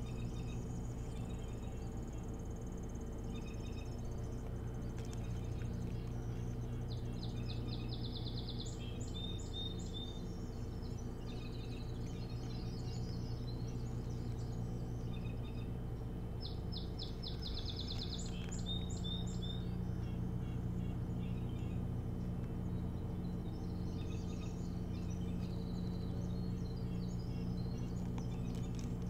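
A bird singing twice, about ten seconds apart: a quick, high trill followed by a few short notes, with fainter high calls later on, over a steady low hum.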